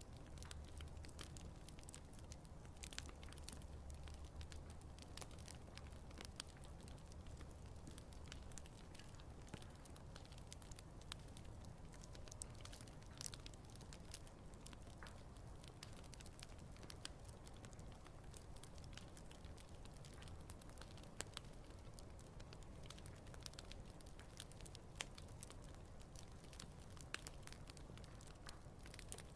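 Wood campfire burning, with faint, irregular crackles and small pops from the burning wood throughout.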